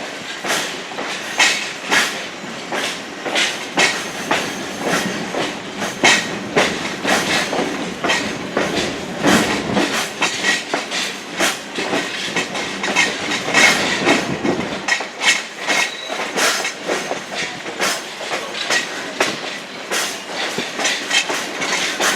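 Passenger coach of a heritage railroad train rolling along, heard from on board: the wheels clack irregularly over rail joints. A deeper rumble joins in from about eight to fifteen seconds in.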